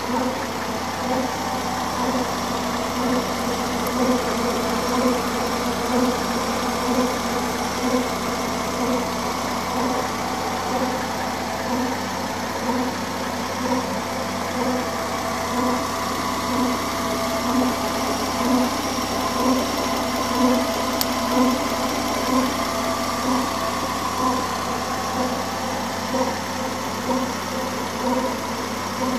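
1992 Subaru SVX's 3.3-litre flat-six idling steadily with an odd rhythmic pulsing noise, about two pulses a second. The noise developed after the front of the engine was resealed with a new timing belt and water pump and the power steering pump rebuilt; its cause is unknown.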